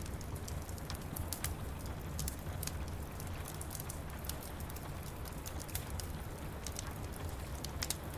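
Wood fire crackling with frequent irregular sharp pops, over a steady low rumble and an even hiss of rain.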